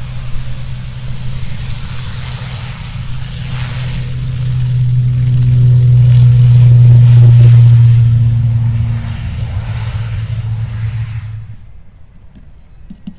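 Aircraft passing close by with a steady low engine drone. It builds to its loudest about seven seconds in, fades, and cuts off abruptly near the end.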